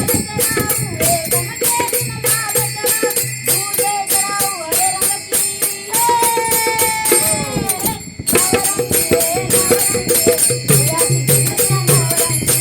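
Folk-style singing over steady jingling, rattling percussion and a low repeating drum beat. About six seconds in, the singer holds one long note that slides down, and the music drops briefly just before the eighth second before picking up again.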